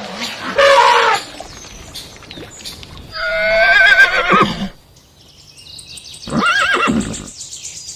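Horse whinnying: a short call about half a second in, then a long quavering whinny that falls in pitch at its end, and a shorter whinny near the end.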